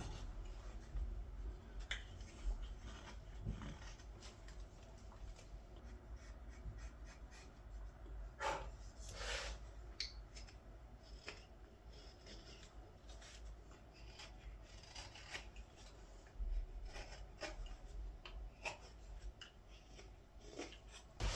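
Knife cutting green wood while a ladle is hand-carved: scattered short scraping cuts, with two longer, louder shaving strokes a little over eight and nine seconds in.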